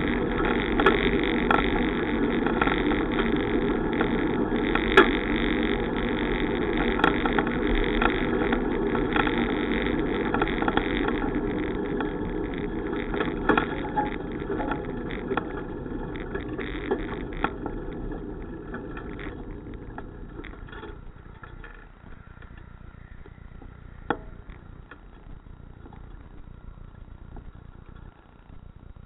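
Steady rushing road and wind noise during a bicycle ride, with scattered sharp clicks. It dies away over several seconds past the middle and settles to a quieter hiss.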